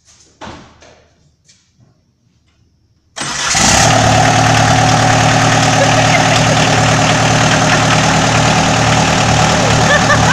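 Volkswagen 1.6 L four-cylinder turbodiesel engine starting for the first time. After about three seconds of near quiet with one faint knock, it cranks, catches almost at once and runs steadily at idle.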